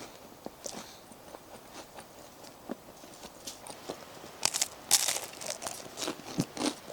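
Eating up close: food being bitten and chewed with crunching, in a run of small scattered clicks. A louder cluster of crunches comes about four and a half to five seconds in.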